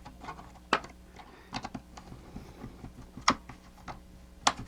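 Hard plastic parts of a mechanical animated figure clicking and tapping as they are handled and fitted back into its housing: a string of irregular sharp clicks, three of them louder than the rest.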